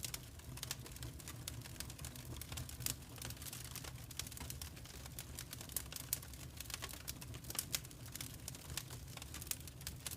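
Fireplace fire crackling: irregular small pops and snaps over a low, steady rumble.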